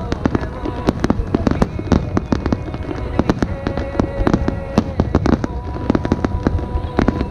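Aerial fireworks going off in a dense barrage: sharp bangs and crackles follow each other several times a second without a break, over a constant low rumble.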